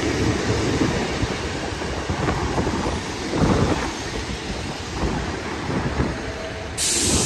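Transport for Wales diesel multiple unit rumbling beside the platform, with wind buffeting the microphone. A sudden hiss of air starts near the end.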